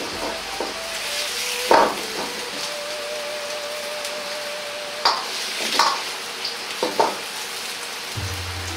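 Daikon radish rounds sizzling in oil in a carbon-steel wok over low heat, the second side browning after the flip. A few short sharp knocks of the wok or its contents come through the steady sizzle.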